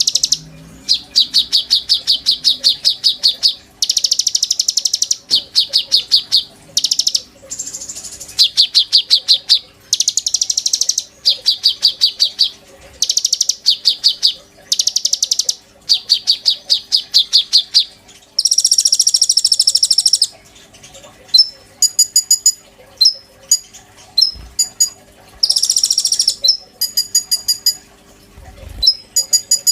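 A konin songbird singing loudly: a rapid, high trilled phrase repeated over and over, each burst lasting a second or two with short gaps. About two-thirds of the way in it gives a longer buzzy note, then scattered sharp chip notes.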